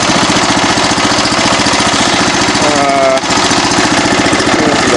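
13 hp overhead-valve engine on a Craftsman snowblower running steadily with a fast, even firing beat, freshly cold-started and warming up.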